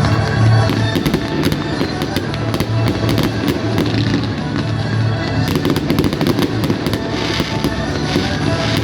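Fireworks crackling and popping in rapid clusters over loud music with a steady bass.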